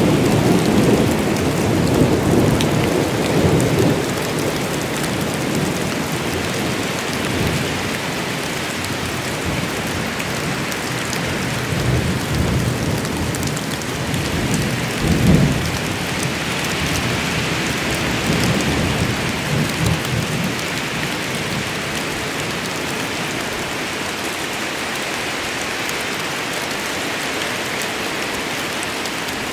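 Steady rain falling in a forest during a thunderstorm, with thunder rumbling low over the first few seconds and again in the middle, loudest about fifteen seconds in.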